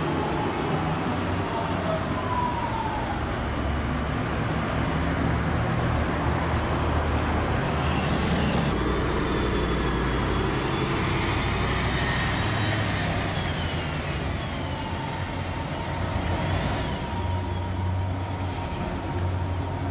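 Tram running along the street: a steady rumble with a low hum, and faint whining tones that glide up and down now and then.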